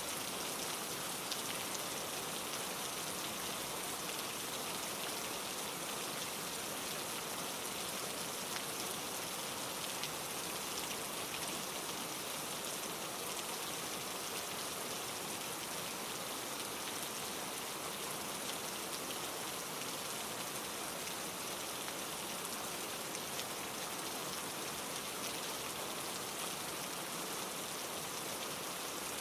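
Steady rain falling on leaves, a dense even hiss of many small drop ticks.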